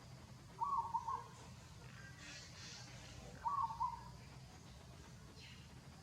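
A bird calling: a short, clear double note repeated at a steady pace, about every three seconds, three times over a low steady background hum.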